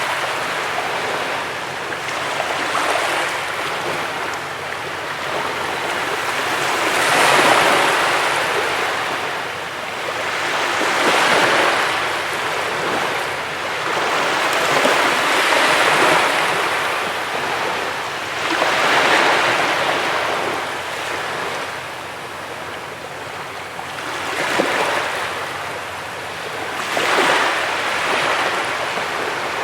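Sea waves washing onto a beach, the surf swelling and fading in repeated surges every few seconds.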